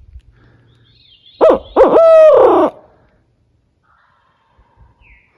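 Owl locator call blown by a turkey hunter to make a roosted gobbler shock-gobble: a loud phrase of two short hoots and a longer hoot that falls away at the end, lasting about a second and a half.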